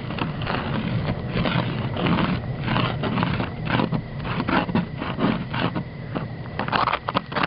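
Irregular scraping and crunching, many short strokes in quick succession.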